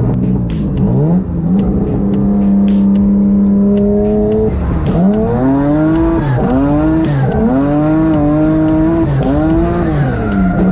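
Car engine held at steady revs, then from about halfway revving up and down over and over, about once a second. The engine is most likely that of the uploader's twin-engine Mazda MX-3.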